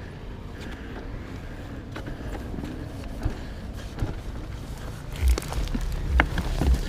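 Enduro motorcycle engine running at low revs, a steady low rumble. From about five seconds in, several heavy low thumps and a few sharp clicks come over it.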